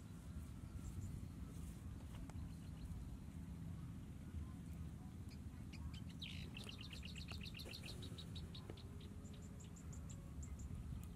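A songbird singing: a quick falling note about six seconds in, then a rapid run of high notes for about two seconds, with a few faint high chirps near the end, over a steady low rumble.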